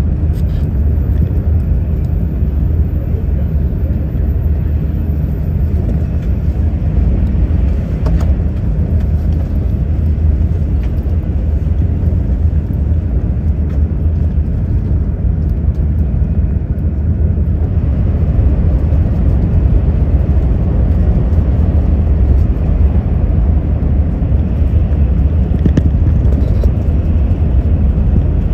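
Steady low rumble of a Shinkansen bullet train running at speed, heard from inside the passenger cabin. It grows a little louder about two-thirds of the way in.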